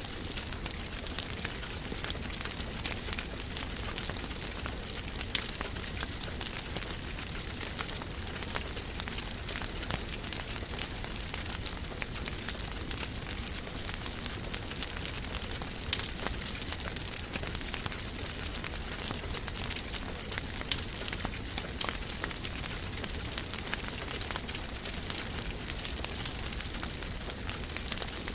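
Wood fire crackling in a fireplace: a steady hiss full of small crackles, with a few louder pops.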